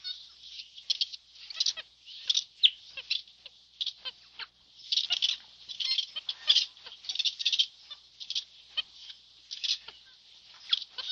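Birds chirping: a dense, irregular chorus of short, high calls with no pause.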